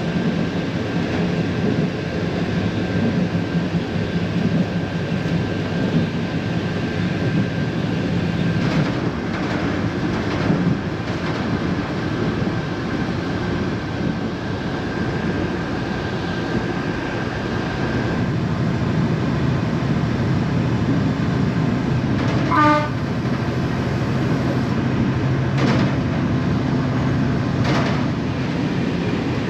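Narrow-gauge passenger train running along the line, heard from inside the carriage: a steady rumble of wheels on rails, with a thin steady whine that fades out a little past halfway. A short falling run of tones comes about three-quarters in, and a couple of sharp wheel clicks follow near the end.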